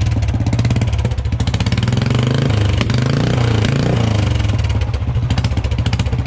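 Royal Enfield Thunderbird single-cylinder engine running with its silencer off, open exhaust pulsing rapidly and very loud, revved up and back down twice.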